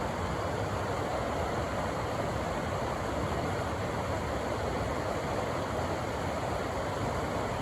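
River water rushing steadily through a rocky canyon, a continuous even roar of flowing water.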